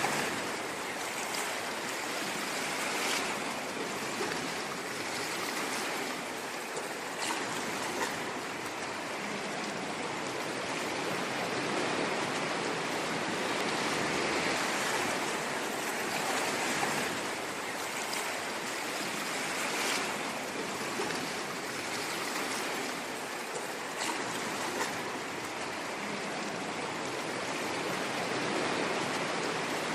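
Ocean surf: a steady, unbroken rush of waves washing, with only small rises in level here and there.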